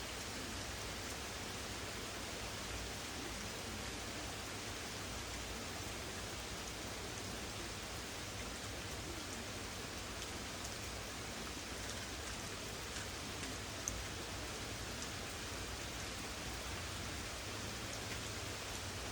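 Steady rain falling in a thunderstorm: an even hiss with faint scattered drop ticks, and one sharper tick about fourteen seconds in.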